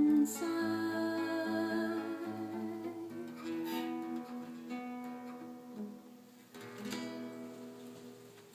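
Closing instrumental bars of a song with guitar: held chords that die away gradually, with one last chord struck near the end.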